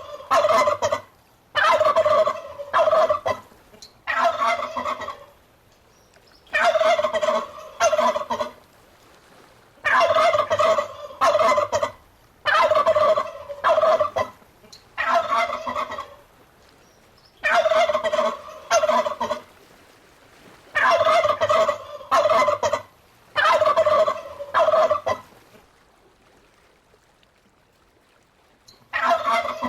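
Turkey gobbling: about ten loud, rattling gobbles in quick succession, each a second or two long, then a pause of a few seconds before another starts near the end.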